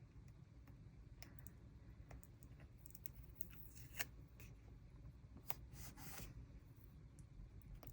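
Faint handling of paper and stickers: scattered small ticks and rustles, with one sharper tick about four seconds in and a brief rustle near six seconds.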